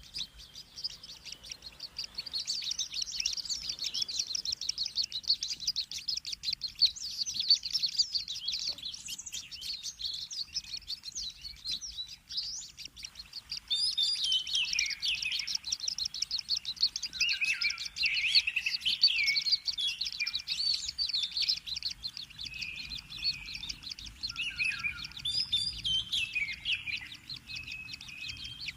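Kingfisher chicks calling: a dense run of rapid, high chirps that changes about halfway through to looser, more varied notes.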